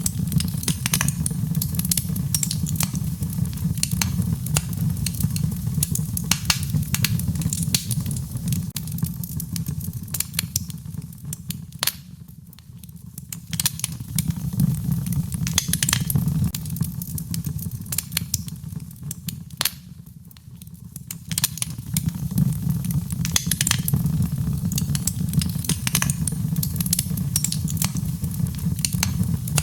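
Wood fire in a fireplace crackling, with frequent sharp pops and snaps over a steady low rumble of the flames. The rumble eases off briefly twice, about twelve and twenty seconds in.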